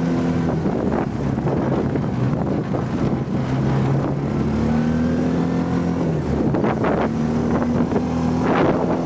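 Vmoto Scartt 11 UTV's 500cc carburetted engine running in low range, which is its normal sound, with its pitch rising a little about halfway through. A burst of noise near the end.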